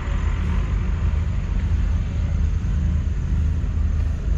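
Massey Ferguson 8S.305's 7.4-litre six-cylinder diesel engine running at a steady speed, a low even drone.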